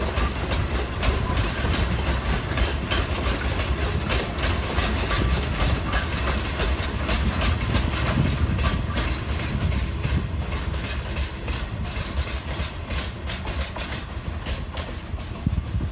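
Freight train of loaded limestone hopper wagons rolling by, with a low rumble and a run of wheel clicks over the rail joints, easing off slightly near the end.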